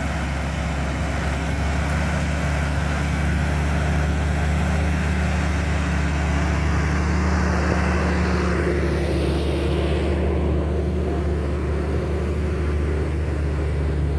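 Diesel engine of heavy logging equipment running steadily under work while limbs are cleared away.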